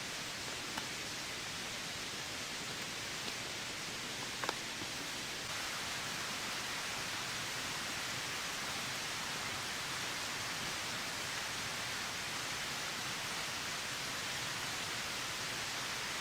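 Steady hiss of heavy rain falling, with a few sharp ticks; the rain grows slightly louder about five seconds in.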